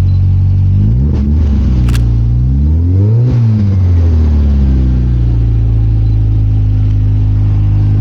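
Car engine idling, then revved once: the pitch climbs for about two seconds and falls back to a steady idle. A single sharp click comes about two seconds in.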